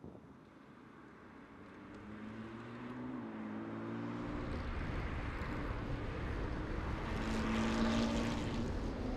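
Sports-car engines approaching on a racetrack, their note rising in pitch and growing louder over the first four seconds. Then an abrupt change to a louder, steadier rumble of engine and wind as heard from a car at speed, loudest near the end.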